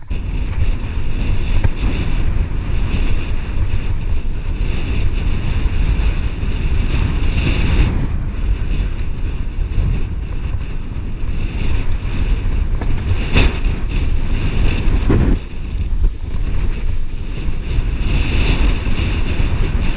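Heavy wind buffeting the microphone: a loud, steady rumble, likely from a camera carried on a fast mountain-bike ride.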